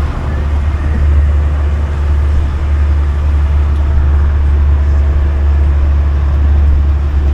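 Steady low drone and rumble of a moving tourist road train, heard from on board, with no distinct events.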